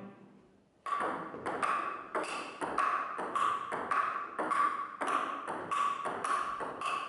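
Grinding on a wooden plank: rhythmic scraping strokes about three a second, each with a short ring, starting about a second in.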